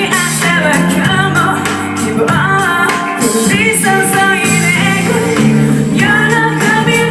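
Live band music with a singer's voice, played loud and continuously.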